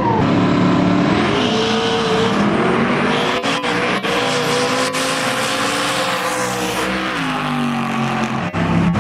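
Drag race car making a pass down the strip, its engine pulling hard. The engine note rises over the first few seconds, holds, then drops away about seven seconds in.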